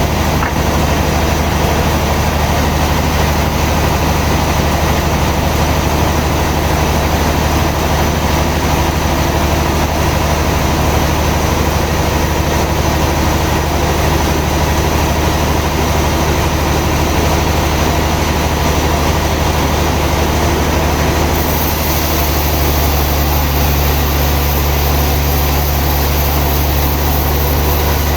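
Sawmill machinery running steadily with a continuous low engine-like hum and a broad mechanical noise over it; the tone shifts slightly about 21 seconds in.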